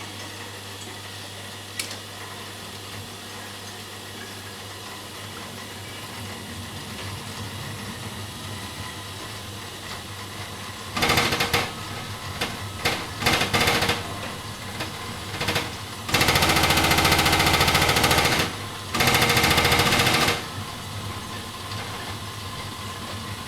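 Vokera Linea 726 gas combi boiler banging while it fires for hot water, over a low steady hum of running water. About halfway through come a string of loud knocks, then two long stretches of fast rattling banging, each about two seconds. This is the boiler's fault noise on hot water demand, with no change in system pressure.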